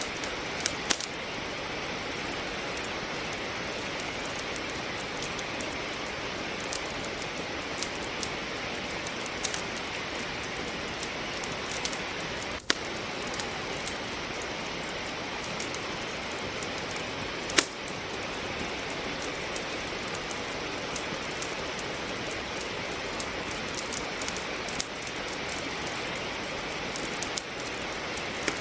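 Steady hiss of rain with a wood fire crackling over it: scattered sharp snaps and pops from the burning logs, one of them louder about two-thirds of the way through.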